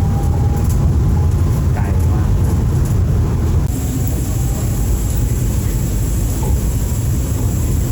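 Steady low rumble of a train running on the BTS Skytrain line, with a faint steady whine over it.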